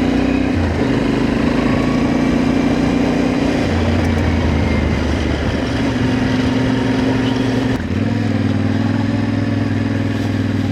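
Motorcycle engine running steadily under way, its note stepping to a new pitch a few times, with a brief dip in level near the end.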